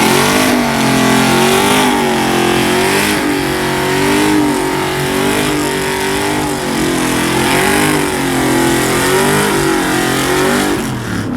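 Vehicle engine revved up and held at high revs, its pitch wavering up and down before it eases off near the end.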